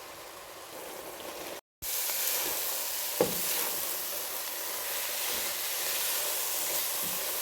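Blended pepper-and-tomato stew frying in oil, a steady sizzling hiss that drops out briefly and comes back louder about two seconds in. A single knock sounds about three seconds in.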